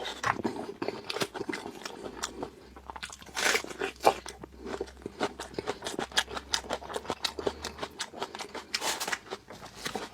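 Close-miked chewing and biting of food: a steady run of quick clicks and crunches, with louder bites about three and a half and nine seconds in.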